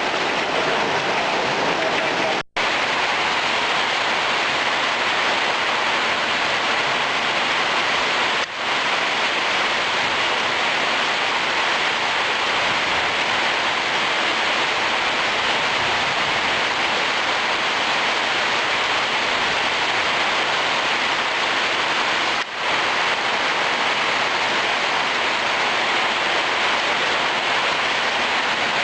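Heavy rain pouring down steadily in a dense, even hiss. The sound cuts out for an instant about two and a half seconds in and dips briefly twice more.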